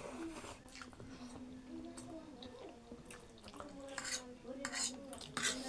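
Mukbang eating sounds: noodles and egg being chewed, with a fork or spoon clinking on a bowl, over a faint voice in the background. A cluster of sharper, louder eating noises comes in the second half.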